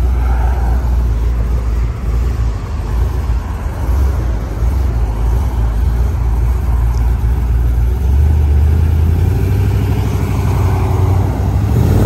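Chevrolet Caprice sedan's engine running with a loud, low exhaust rumble as the car rolls slowly. It revs up slightly about eight seconds in, and the pitch starts climbing at the very end as the car pulls away.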